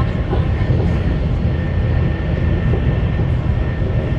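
CRH1A electric multiple unit running, heard inside the passenger car: a steady low rumble with a faint steady high tone above it.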